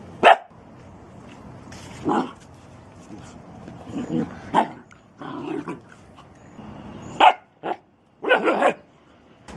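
Dog barking in a string of short, sharp barks and yips, irregularly spaced, with a quick cluster near the end.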